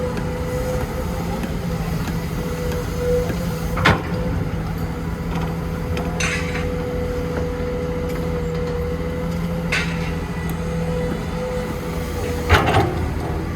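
Heavy diesel construction machinery running steadily with a constant hum and a steady whine. A few sharp knocks or clanks break through, the loudest near the end.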